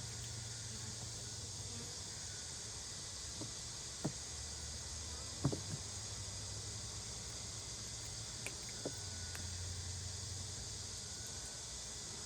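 A steady, high insect chorus over a low hum from a fan, broken by a handful of short, sharp clicks and knocks as hive frames and the hive tool are handled.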